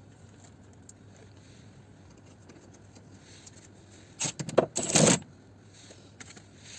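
Metal hand tools clinking and scraping in a short clatter about four seconds in, lasting about a second.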